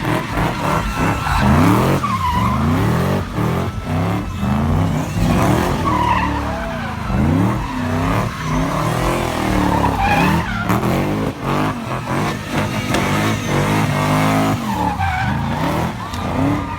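A car spinning its tyres: the engine revs up and down again and again while the tyres squeal and skid.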